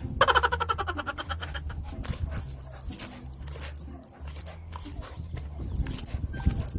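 A dog vocalising: a falling whine at the start, then a run of quick, repeated sounds.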